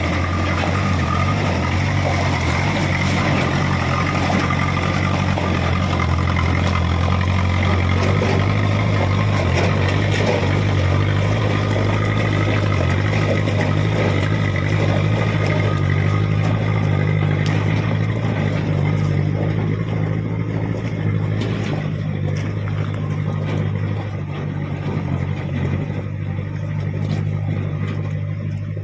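Truck engine running loud and steady, easing off slightly in the last few seconds.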